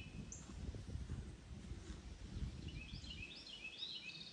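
A songbird singing short, quickly repeated chirping notes at the start and again in the last second or so, over a low rumble of wind noise.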